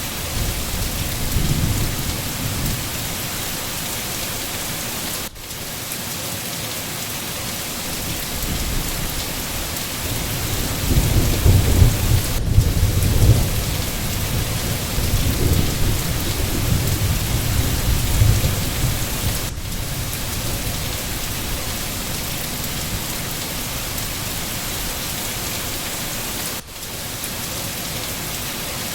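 Steady rain falling, with a low rumble of thunder that swells about ten seconds in and dies away around twenty seconds. The hiss dips briefly about every seven seconds.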